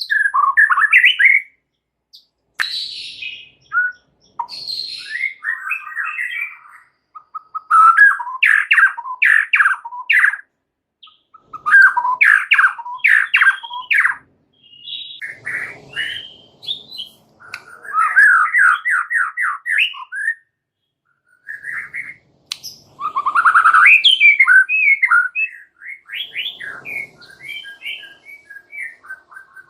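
A white-rumped shama (murai batu) singing a long, varied song in phrases of one to three seconds with short pauses between them. The phrases mix clear gliding whistles, fast runs of repeated notes and harsh, scratchy chatter.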